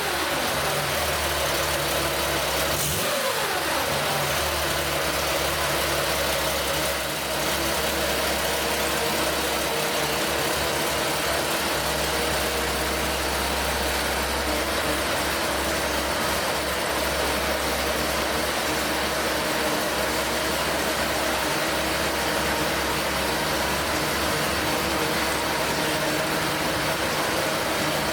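1972 Porsche 911S's air-cooled 2.4-litre flat-six with mechanical fuel injection idling as it warms up after a cold start, with one short blip of the throttle about three seconds in that falls back to a steady idle.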